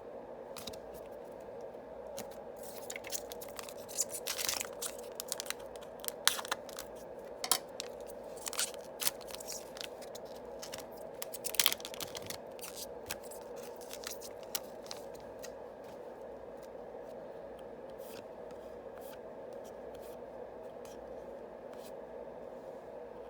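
Yu-Gi-Oh! booster pack foil wrappers being opened, with sharp crinkling and snips and the cards inside being handled, in a run of crackles through the first half that thins to light ticks later on. A steady hum runs underneath.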